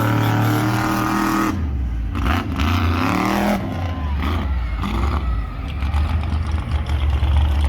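Monster truck engine running loudly, with its revs rising and falling over a steady low rumble.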